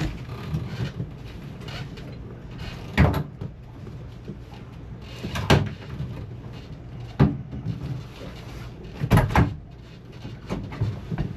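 Wrench clanking against metal fittings on the engine, about five sharp knocks spread out, two of them close together near the end, over a steady low hum.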